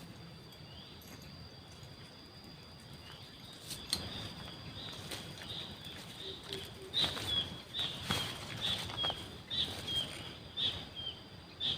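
Sooty-headed bulbul (kutilang) calls used as a lure: short, slightly falling chirps repeated about twice a second, starting about four seconds in and becoming regular. A faint steady high-pitched tone runs underneath.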